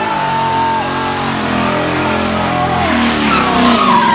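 A car doing a burnout: the engine is held at high revs while the tyres squeal and skid against the pavement.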